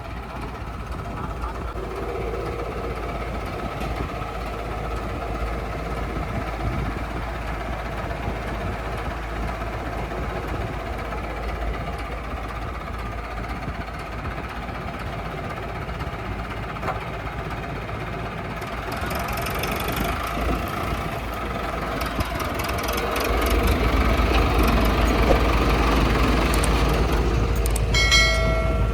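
Diesel engines of an excavator and tractors running steadily while mud is loaded, getting louder over the last several seconds. A brief pitched tone sounds near the end.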